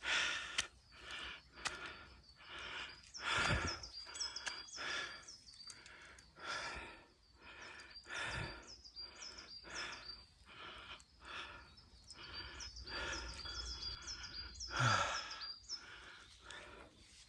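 Hard, rhythmic breathing in and out, about one and a half breaths a second, with small birds chirping in the background.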